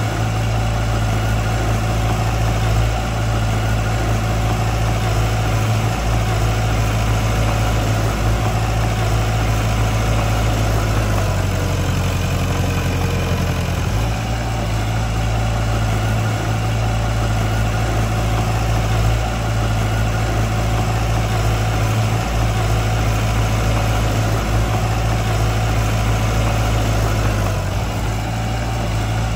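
Heavy machine's diesel engine running steadily with a deep hum; its note shifts for a couple of seconds about halfway through, then settles back.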